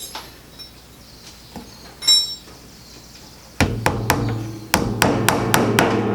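Hammer tapping small nails into a wooden beehive frame: a brief metallic clink about two seconds in, then a quick run of about nine sharp taps from just past halfway.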